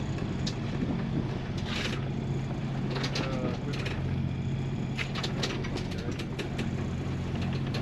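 Sailboat's inboard engine running steadily under the motor sailing, a constant low hum, with a run of sharp clicks and rattles from the deck gear about five seconds in.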